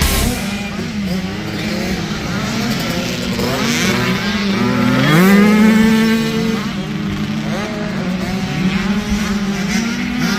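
Several motocross bikes' engines racing, their pitches rising and falling with throttle and gear changes; one revs up sharply about five seconds in.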